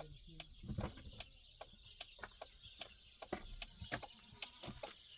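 A rapid, irregular run of faint sharp clicks or taps, several a second.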